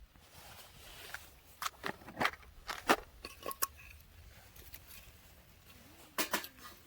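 Campfire wood crackling, with a run of sharp pops and snaps in the middle and two more near the end.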